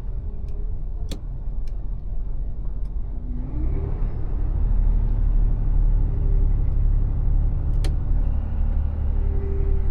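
Mercedes Actros truck's diesel engine running with a steady low rumble; about a third of the way in its pitch rises and it grows louder. Two sharp clicks stand out, one early and one near the end.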